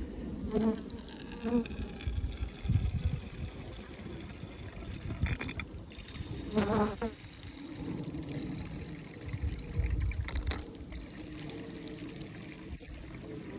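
Honeybees buzzing as they fly close past the microphone, several times, loudest about halfway through, over a low rumble.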